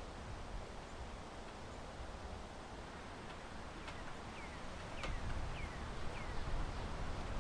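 Steady outdoor wind and rustling, and from about four seconds in a small bird giving a quick series of short, high, falling chirps.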